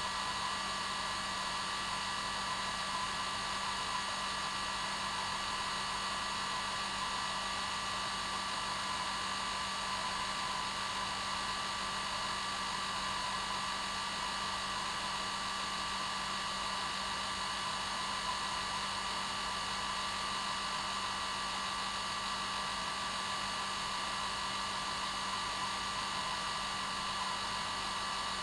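Hair dryer running steadily: an even, unchanging whoosh of air over the motor's steady whine.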